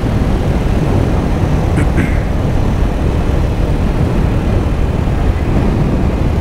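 Steady wind rush over a helmet microphone together with a 2024 Kawasaki Ninja 500's parallel-twin engine running at a steady cruise.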